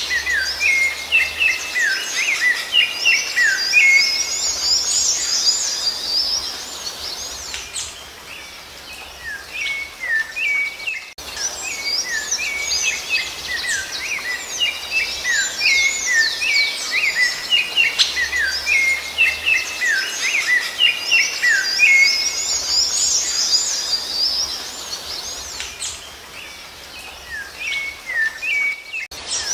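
Songbirds singing in fast runs of sliding, high chirps and twitters, in two long bouts each followed by a quieter spell.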